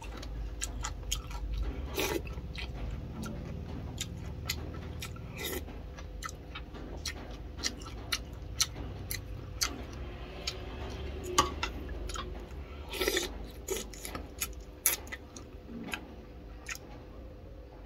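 A person eating boiled chicken and rice close to the microphone: chewing, with frequent irregular sharp clicks and taps from the mouth and the spoon, over a steady low hum.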